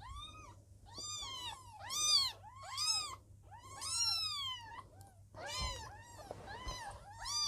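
A Birman kitten under two weeks old mewing over and over while being handled: high, thin mews that rise and fall, about one a second.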